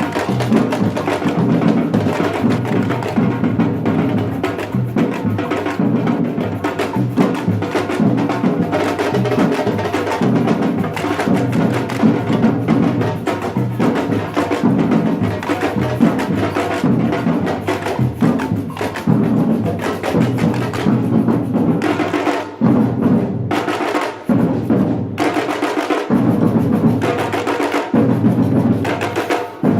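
Batucada samba percussion ensemble playing a fast, dense, steady drum rhythm. There are a few short breaks in the last third, where the drums cut out together for a moment.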